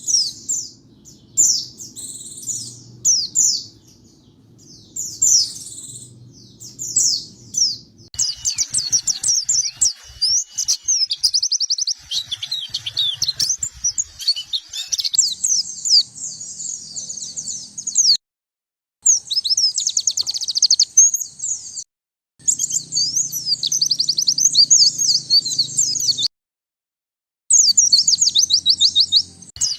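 White-eye (pleci) singing: short high twittering phrases about once a second, then a fast, continuous warbling chatter. The song is broken three times by abrupt dead-silent gaps where recordings are spliced, and a faint low hum sits under parts of it.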